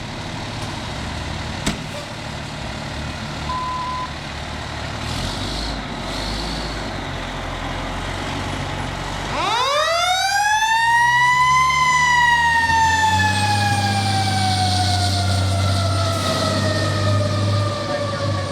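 A fire engine-tanker's diesel engine runs with a low rumble. About halfway through, its siren starts up, winding quickly up to a high wail and then slowly sliding down in pitch, like a mechanical siren coasting down.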